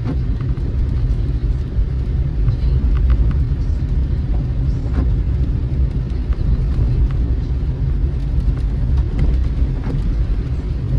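Steady low road rumble of a car being driven, heard from inside the cabin, with scattered faint ticks throughout.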